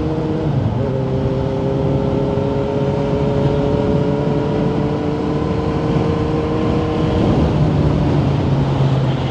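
2018 Kawasaki Z900's inline-four running through a Yoshimura exhaust while riding at a steady pace, over a rush of wind and road noise. The engine note holds steady, then drops in pitch about seven seconds in.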